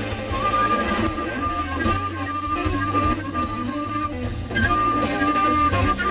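A live electric band playing: a lead line of long held notes over guitar, bass and drums.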